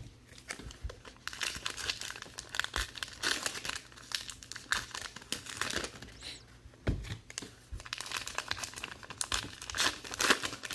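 Trading card pack wrappers crinkling and tearing as packs are opened and handled, in a dense run of irregular crackles.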